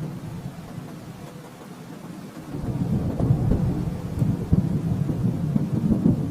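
Low rolling thunder rumbling, easing off about a second and a half in, then building again from about two and a half seconds in.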